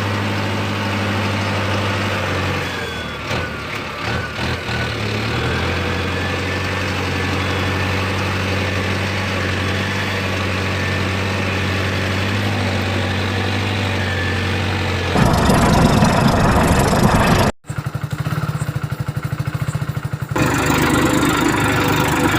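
Tractor engine idling steadily. About fifteen seconds in, a louder, rougher engine sound cuts in suddenly. It breaks off for a moment, goes on with a rapid pulsing, and changes abruptly again near the end.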